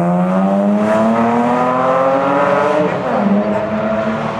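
Rally car engine accelerating past, its pitch rising steadily for about three seconds, then dropping sharply and holding lower for the rest.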